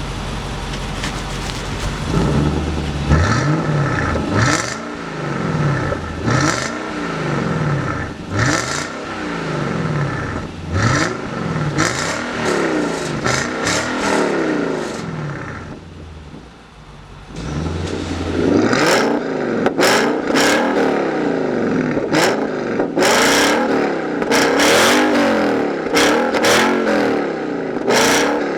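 Infiniti M56's 5.6-litre V8 through a Mechatuning valved variable exhaust, revved over and over in short blips, pitch rising and falling about every two seconds. It settles briefly about two-thirds of the way in, then revs again with sharper crackling.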